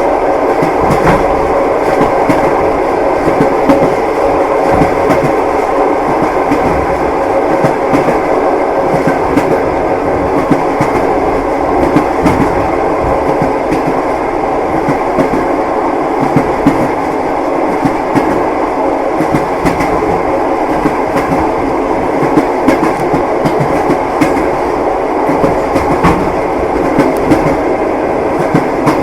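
Passenger train carriage in motion, heard from inside: a steady rumble of wheels on rails with a continual clickety-clack of wheels knocking over the rail joints.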